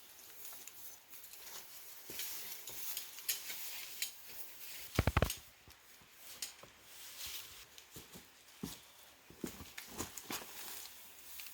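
Irregular light clicks and knocks of objects being handled, with a quick run of loud knocks about five seconds in, over a faint steady hiss.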